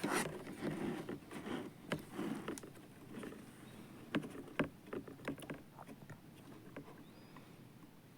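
Rustling and knocking, busiest in the first three seconds, then scattered light clicks and taps.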